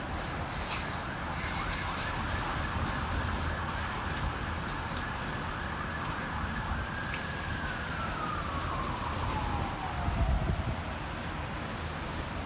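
A siren holds one steady tone, then falls slowly in pitch over several seconds, over steady rushing wind. A gust buffets the microphone near the end.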